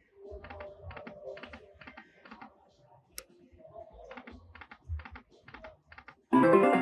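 Lightning Link slot machine sound effects: a run of quick, light clicking ticks as the reels spin and stop. Near the end a loud burst of the machine's music cuts in.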